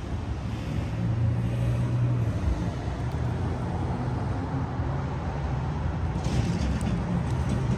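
Steady low rumble of motor vehicle traffic, swelling a little for a second or two, with a few light clicks and taps near the end.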